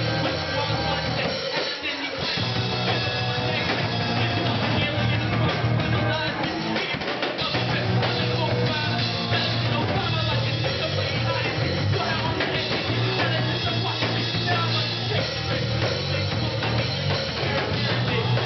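Live band playing a rock song on drum kit, guitar and bass. The low bass line drops out briefly about two seconds in and again about seven seconds in.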